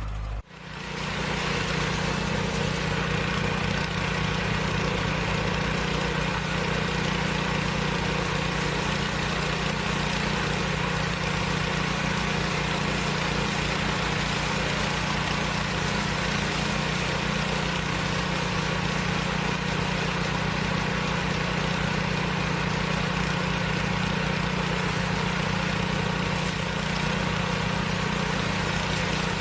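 An engine running steadily at a constant speed, after a brief break about half a second in.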